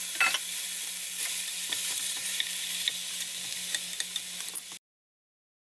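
Soybean sprouts stir-frying in sesame oil in a stainless steel pan: a steady sizzle with the scrapes and light taps of wooden spatulas tossing them. The sound cuts off abruptly near the end.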